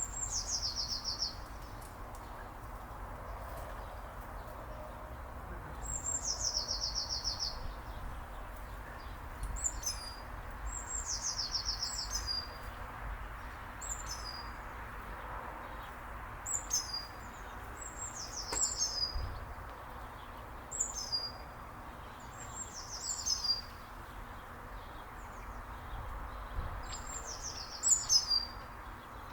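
A songbird singing, repeating a short high trill that drops in pitch every few seconds, with brief high chirps between the phrases.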